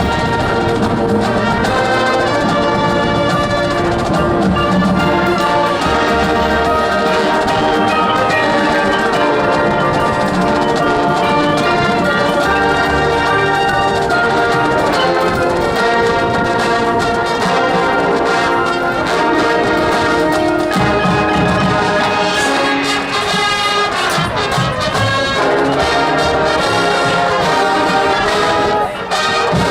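High school marching band playing a brass-led passage in sustained chords, with percussion underneath.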